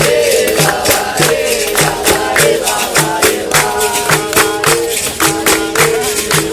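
Capoeira roda music: voices singing together over berimbau-led percussion, keeping a steady beat.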